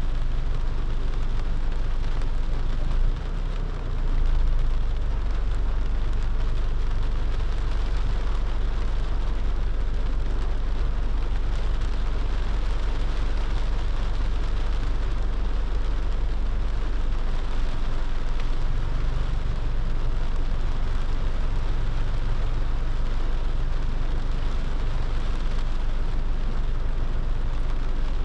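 A car driving in the rain: a steady low road rumble under an even hiss of rain, with a brief dip in level about three seconds in.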